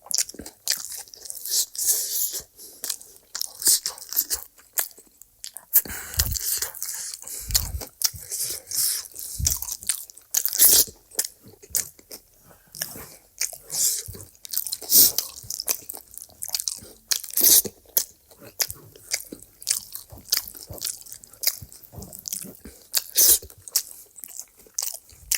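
Close-miked eating: a run of crisp crunching bites and chewing, with a few dull low thuds between them.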